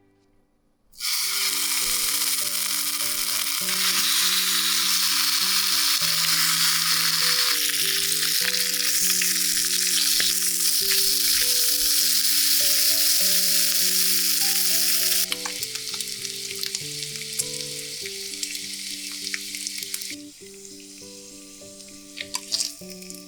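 Food frying in a hot pan, a loud steady sizzle that starts suddenly about a second in, then quietens in two steps with scattered spitting crackles. Soft background music plays throughout.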